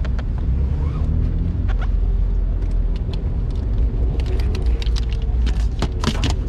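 Car running at low speed, a steady low engine and road rumble. A faint tone rises and falls about four seconds in, and short clicks are scattered through, most of them near the end.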